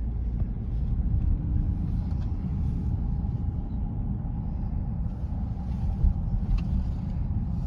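Steady low road rumble and engine hum of a car driving slowly, heard from inside the cabin, with a brief knock about six seconds in.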